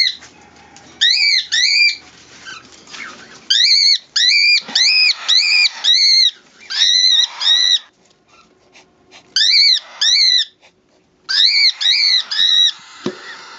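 Pigeon squabs squealing: short high-pitched squeaks, each rising and falling, repeated in quick runs of two to six with short pauses between.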